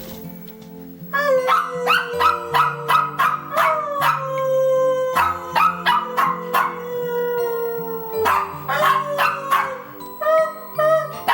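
Dogs barking and howling: repeated short yips that fall in pitch, with longer falling howls, over steady background music.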